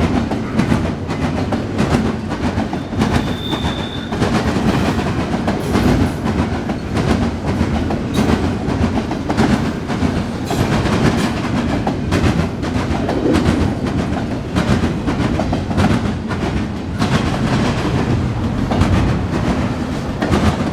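Norfolk Southern intermodal freight train rolling past, its car wheels clicking steadily over rail joints, with a brief high squeal about three seconds in.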